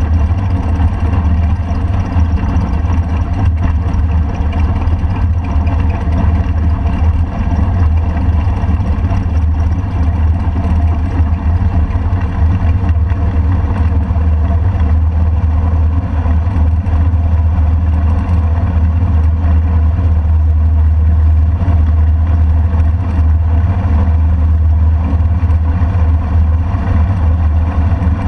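Motorcycle engine running steadily at low speed, with a strong low rumble.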